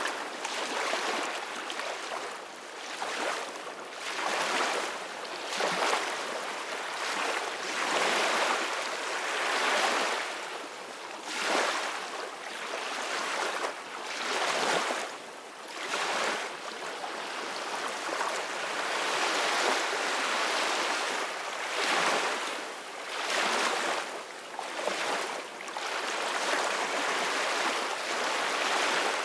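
Ocean waves breaking and washing in, a continuous hiss of surf that swells and eases every couple of seconds.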